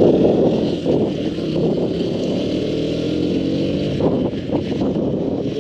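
Motorcycle engine running under way with wind and road noise, its note drifting a little in pitch as the speed changes.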